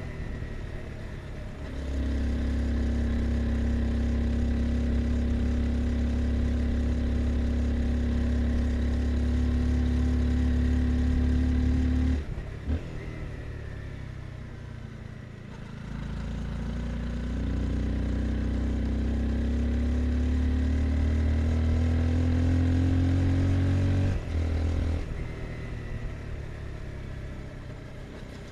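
Honda CBR 250R's single-cylinder engine under way, pulling at steady revs. About twelve seconds in the throttle closes and the engine runs quieter for a few seconds, then pulls again with its pitch slowly rising until the throttle shuts off again near the end.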